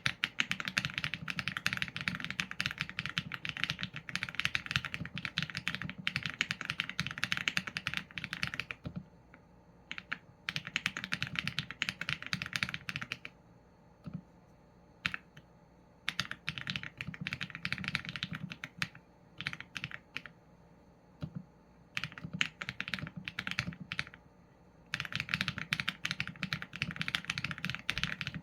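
Typing on a Qsenn A75 mechanical keyboard with Leobog Graywood v4 linear switches and PBT keycaps: runs of rapid keystrokes broken by short pauses of one to two seconds.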